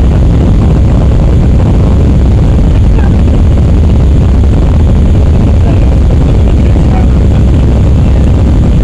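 Loud, steady roar of an Airbus A319's jet engines and rushing air, heard from inside the passenger cabin, with most of the sound deep and low.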